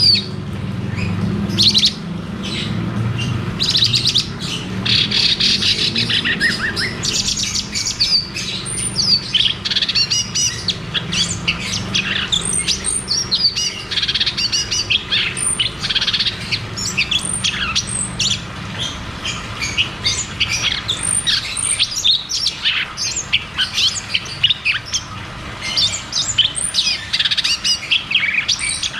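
Cucak cungkok, a bulbul, singing a continuous rolling song of fast, high chirps and short rapid-fire notes, the phrases running close together and overlapping.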